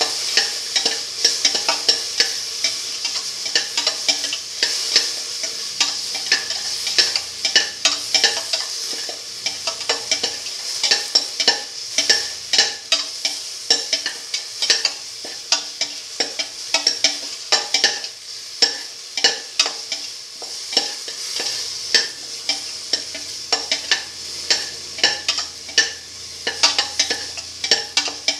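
Tomato pieces, shallots and garlic sizzling in oil in a stainless steel pot, with a metal spatula scraping and clicking against the pot in frequent quick strokes as it stirs.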